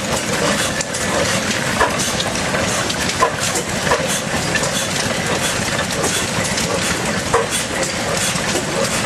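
Austral 6 HP stationary engine running and driving an Ajax water pump: a steady mechanical clatter with a sharper knock every second or so.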